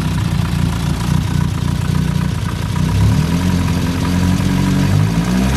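A turbocharged Toyota Starlet four-cylinder engine is running at idle, then its throttle is worked by hand from about three seconds in and the engine speed rises near the end. This is the engine that has spun a rod bearing.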